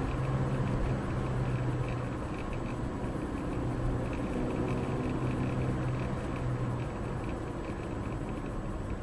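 Car engine hum and road noise inside a moving car, steady throughout, with the low engine hum fading out about seven seconds in.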